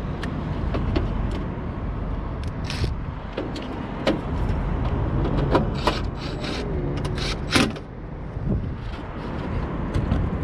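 Scattered sharp clicks and clinks of hands working wires and spade terminals onto a condenser unit's run capacitor, over a steady low rumble.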